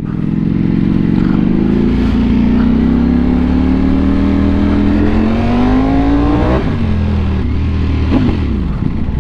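Sport bike engine accelerating hard through a long gear, its pitch climbing steadily for about six seconds, then dropping sharply as the throttle is closed, with a brief falling note near the end.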